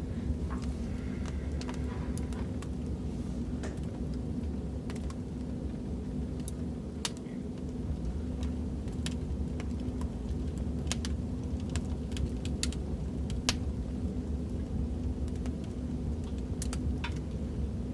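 Wood fire in a fireplace crackling: a steady low rumble with sharp snaps and pops at irregular intervals.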